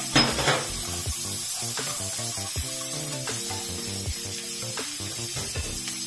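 Chopped onion and garlic sizzling in oil in a nonstick frying pan, with scattered scrapes and taps of a slotted spatula and two louder knocks near the start, under background music.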